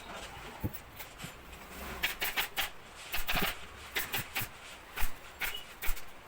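Irregular sharp clicks and knocks, about a dozen, unevenly spaced, with a faint rustle between them.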